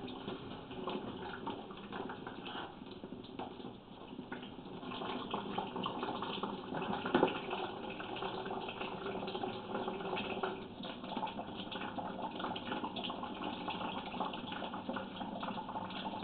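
Water running steadily down a washing machine drain line, getting louder about four seconds in; the water is run as a test to find a leak from a crack in the drain pipe.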